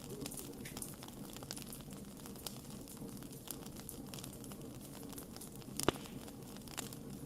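Wood campfire crackling with frequent small, irregular pops over a low steady rumble of flames, and one louder pop about six seconds in.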